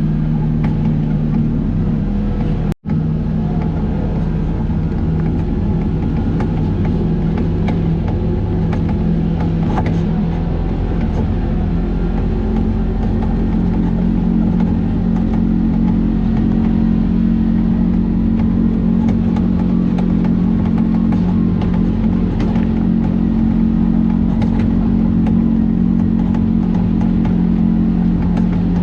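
A vehicle engine running steadily under way, heard from on board, its drone a little stronger from about halfway. The sound cuts out completely for a split second about three seconds in.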